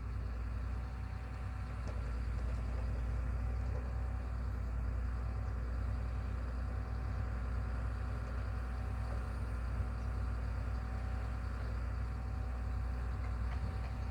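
Heavy machine engine running steadily with a low, even drone and a faint whine above it.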